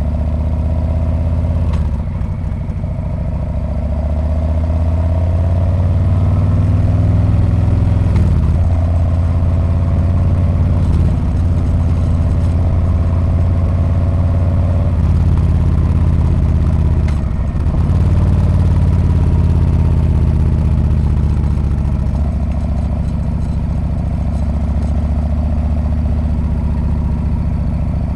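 Harley-Davidson Street Bob's V-twin engine and exhaust running steadily under way, heard from the rider's seat. Its note dips briefly twice, about two seconds in and again past halfway.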